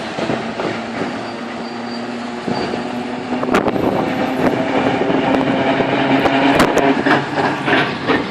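Historic tram running on its rails: a steady low hum with a held tone, growing louder from about three and a half seconds in, with many sharp clicks and knocks from the running gear.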